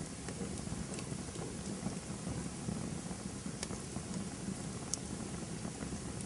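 Campfire burning with a steady low rush and scattered sharp crackles and pops from the burning wood, a few louder ones near the middle and end.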